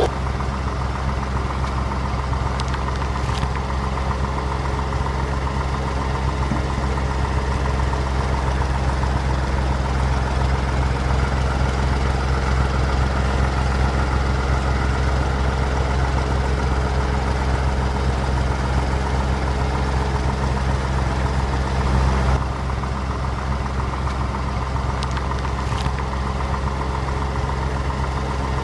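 A heavy engine idling steadily with a deep, even hum, briefly louder about 22 seconds in.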